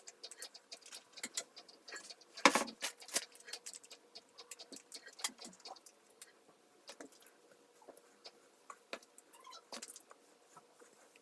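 Scattered light clicks and taps at an uneven pace, with one louder knock about two and a half seconds in.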